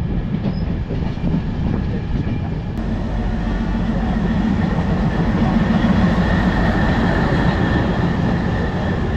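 Passenger train rolling slowly, heard from an open coach door: a steady rumble of wheels on track. It grows a little louder in the middle, with a faint high whine, as the coach passes close by a standing WDP diesel locomotive.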